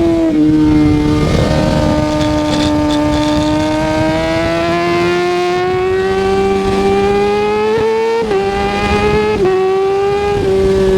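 Kawasaki ZX-6R 636's inline four-cylinder engine running under way, its note climbing slowly as the bike gathers speed, with brief dips in pitch about eight and nine and a half seconds in.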